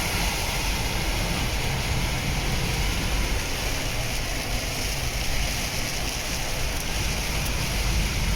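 Heavy rain falling steadily on a moving car, with a low rumble of engine and road noise underneath.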